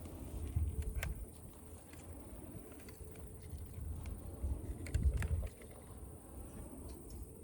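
Small wood fire in a camp stove crackling, with a few sharp pops about a second in and around five seconds in, over an uneven low rumble.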